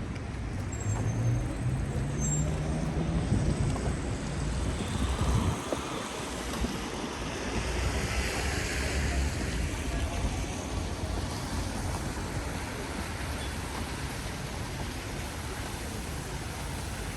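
City street traffic on a rain-wet road: a vehicle's engine rises in pitch as it pulls away in the first few seconds, over a steady hiss of tyres and traffic on wet pavement.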